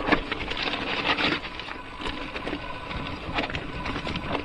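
Mountain bike rattling and clattering as it rolls down a rough dirt downhill trail, with many small knocks and clicks over bumps.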